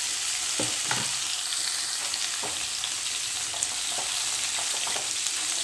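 Cubed bottle gourd sizzling in hot oil in a metal kadai, with a steady hiss of frying and a few short scrapes and knocks from a metal spatula as the pieces are stirred and lightly sautéed.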